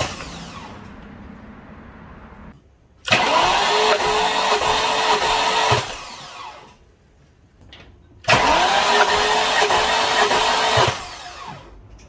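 Starter motor cranking a BMW N62 V8 with all its spark plugs out and the fuel pump fuse pulled, so the engine spins without firing, as is done for a compression test. There are two cranks of about two and a half seconds each, and each opens with a whine that rises and then holds steady. Before them, the sound of an earlier crank dies away.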